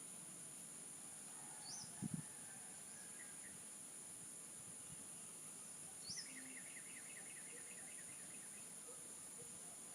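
Faint outdoor ambience: a steady high-pitched insect drone, with small birds calling over it. There is a short rising chirp about two seconds in and again about six seconds in, with a quick trill just after the second one, and a soft low knock about two seconds in.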